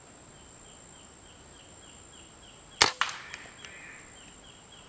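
A single air rifle shot about three seconds in: one sharp crack followed by a fainter click, fired at spotted doves. Insects chirp steadily underneath.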